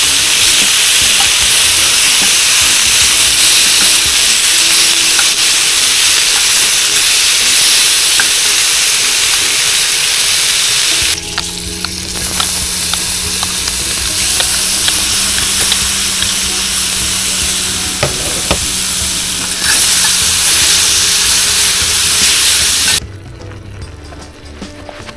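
Food frying in a pan: a loud, steady sizzle that dips briefly about eleven seconds in and stops a couple of seconds before the end.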